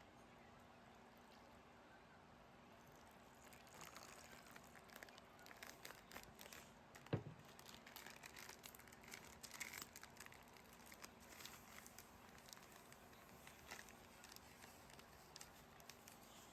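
Faint crinkling and light clicking of something being handled, with one sharper knock about seven seconds in.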